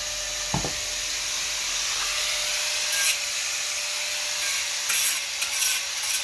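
Angle grinder running with a steady whine, its disc grinding on steel in louder bursts about three seconds in and again near the end. A single knock sounds just after the start.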